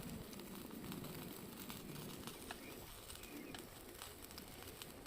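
Low, soft calls of a bird, a few times over several seconds, over a faint background with scattered thin clicks.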